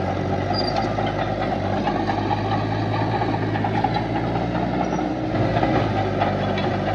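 Heavy diesel engine of construction machinery running steadily with a low, even hum.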